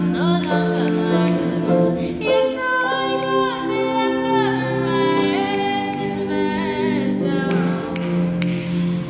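A group of voices singing together in harmony, holding long wavering notes over a steady low note.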